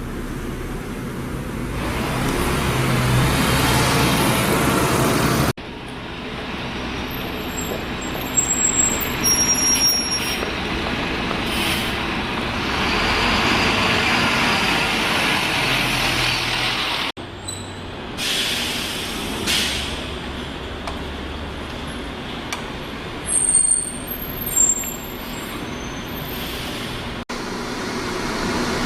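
Buses running, heard across several shots that cut abruptly from one to the next. There are short, high-pitched squeals in two clusters, about 8 seconds in and again about 23 seconds in, typical of bus brakes.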